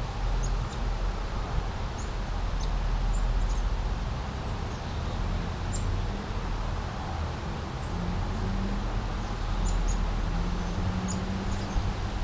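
A babbling brook, water flowing steadily over a low rumble, with small birds chirping in short, high notes many times throughout.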